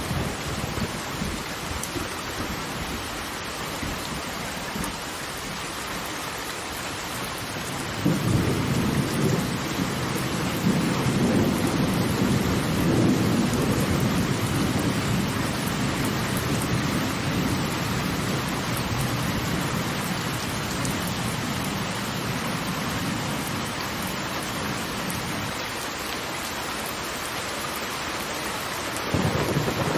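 Waterfall: a steady rush of falling water, with a deeper rumble that swells about eight seconds in, slowly eases off, and swells again near the end.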